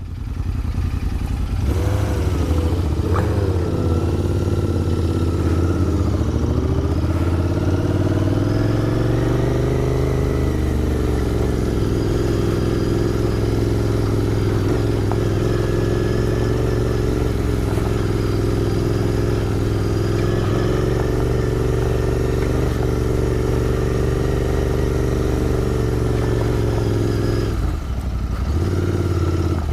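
Royal Enfield Interceptor 650's parallel-twin engine running on the move, heard from the bike. The revs waver and rise over the first ten seconds or so, then hold steady, and the engine note drops briefly near the end.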